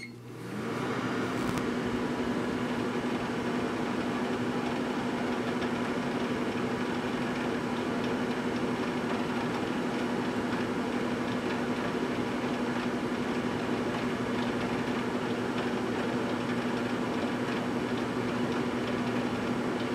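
Microwave oven switched on with a click. Its hum rises in pitch for about half a second, then runs steadily.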